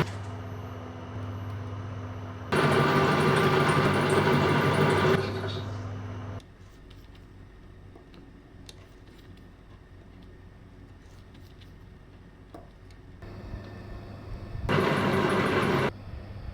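A small metalworking lathe's motor hums steadily while it cuts a brass or steel bar into an M39 thread mount. Loud cutting passes start about two and a half seconds in and last a few seconds. The motor stops soon after and light clicks follow, then the machine starts up again with a shorter loud cutting pass near the end.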